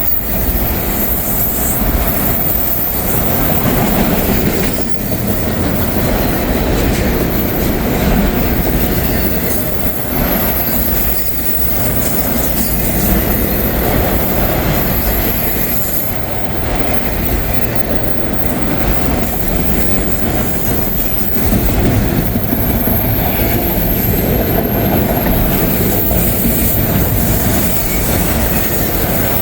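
CSX freight train rolling past, its wheels clacking over the rail joints, with a thin high-pitched wheel squeal coming and going.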